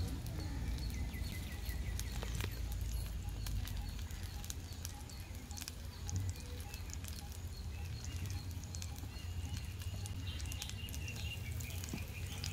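Ghee sizzling and crackling on a hot tawa as pieces of banana dough are laid into it to fry. Birds chirp repeatedly throughout.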